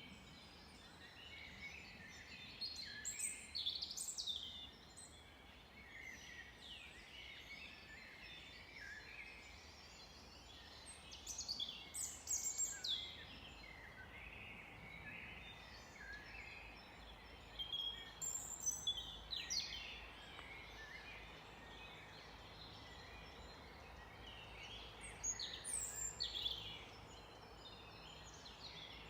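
Birdsong: one bird sings a loud phrase of quick falling whistles about every seven seconds, four times, while other birds chirp softly throughout.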